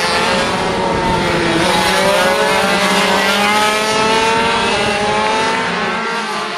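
Several 50cc two-stroke racing motorcycles running at high revs together, their engine notes rising and falling against each other as they accelerate and change gear.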